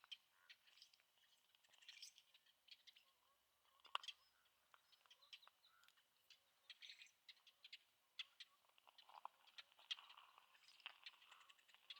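Very faint outdoor ambience: small birds chirping in the distance, with scattered soft ticks and crackles.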